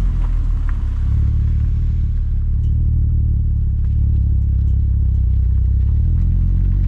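Exhaust of a Skoda Superb's 3.6-litre VR6 FSI engine through a Gestec cat-back system: a steady, loud low drone with no revving. The higher hiss fades about two seconds in.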